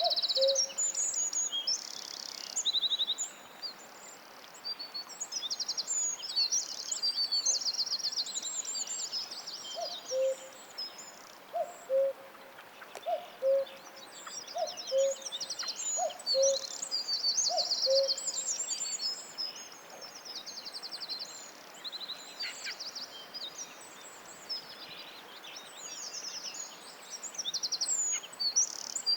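Several songbirds singing together in a forest chorus, with high warbles and rapid trills overlapping throughout. In the middle, a lower short call repeats about every second and a half, several times.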